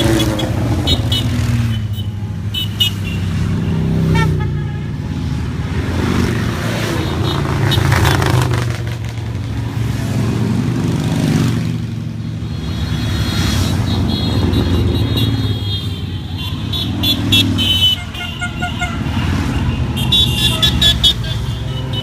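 Motorcycles riding past in a steady stream, their engines swelling and fading as groups go by, with horns honking near the start and again near the end.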